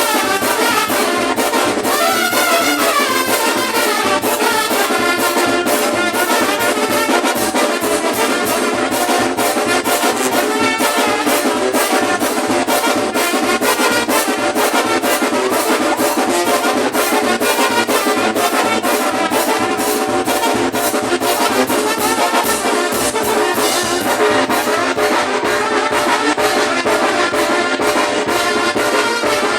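Brass band playing, with trumpets or bugles carrying the tune over a steady, fast drumbeat.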